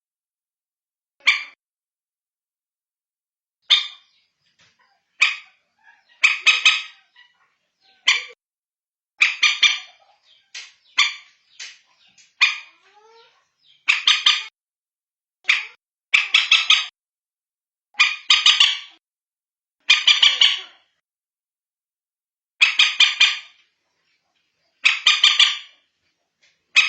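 Common moorhen calls: short, harsh calls repeated every second or two, some in quick runs of two or three, with silent gaps between. This is a recorded call used as a lure for the birds.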